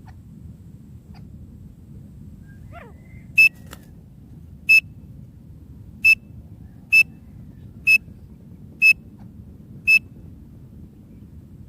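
Francolin (teetar) calling: seven short, sharp, high whistled notes of the same pitch, repeated about once a second.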